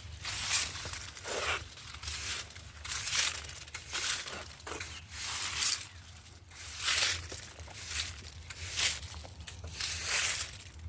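Papery rustling and crinkling of ground cherry plants and their dry husks being handled, in short repeated bursts about once a second.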